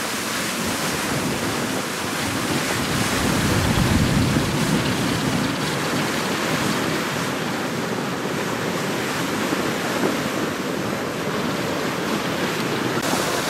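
Steady rushing of water with wind buffeting the microphone, the gusts swelling a few seconds in.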